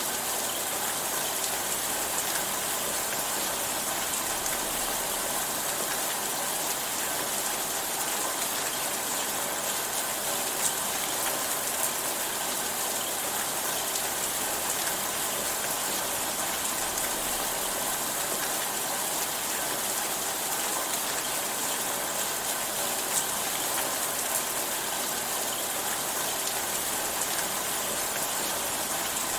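Steady rainfall, an even hiss of many drops with occasional sharper drop ticks.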